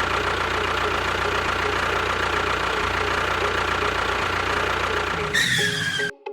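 An engine runs steadily with a fast, even knocking rhythm. Near the end a falling whistle joins it, and the sound cuts off abruptly just before the end.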